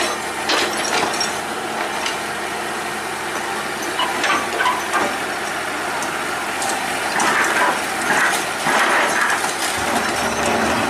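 Excavator at work: its diesel engine runs steadily under metallic scraping and clanking, which comes in louder bursts about four seconds in and through the second half.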